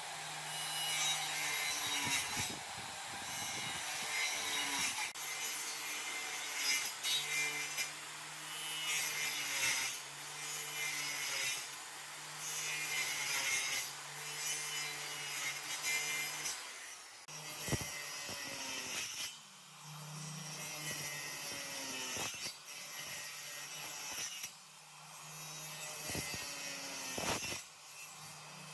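A tool working wood in repeated rasping strokes, each about a second or two long, like sawing or abrading. The strokes are steady through the first half, then come with short breaks and a few sharp clicks.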